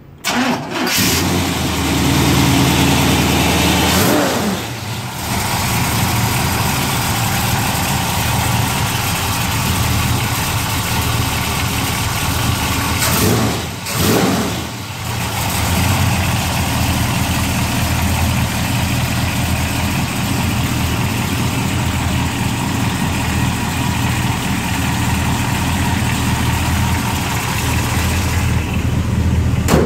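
Carbureted V8 in a 1956 Chevrolet 210 starting up and running fast, its speed dropping about four seconds in. Halfway through there is a quick rev up and back down, and it idles steadily the rest of the time.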